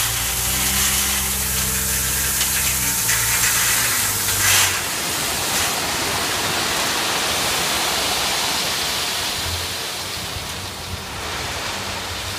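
Dump truck's diesel engine running steadily, with a rushing hiss rising over it as a load of stone slides out of the tipped bed. The engine drops out after about four seconds, a brief louder knock comes just after, and the rushing noise carries on.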